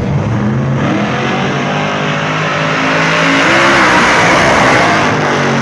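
Drag-racing car engine at full throttle, accelerating hard down the strip; the sound swells to its loudest about four seconds in, then begins to fade.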